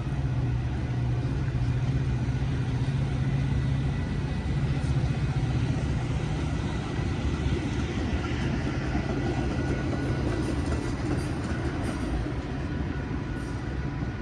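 Metra commuter train running, a steady low diesel engine hum over a continuous rumble.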